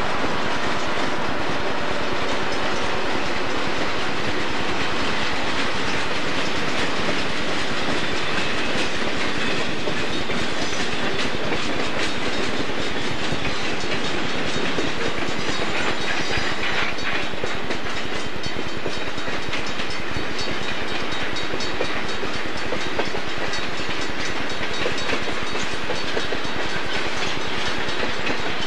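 Diesel freight train passing: a steady rumble of locomotives and freight cars rolling on the rails, with the wheels clicking over rail joints. Near the end a second freight train passes close by.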